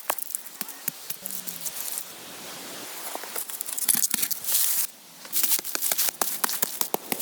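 Dry rustling and tearing with many sharp clicks and snaps, coming in short busy bursts.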